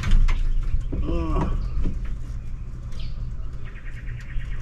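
A short whine that rises and falls about a second in, then a bird trilling in rapid repeated chirps near the end, over a steady low rumble.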